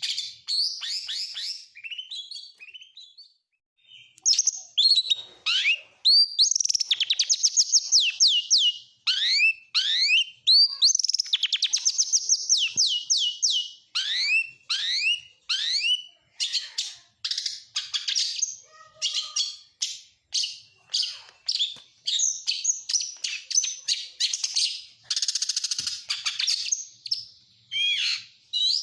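Oriental magpie-robin (kacer) singing a long, varied song with imitations of other birds woven in. It is a fast run of high, down-slurred whistles, rapidly repeated chirps and trills, with a short break about four seconds in.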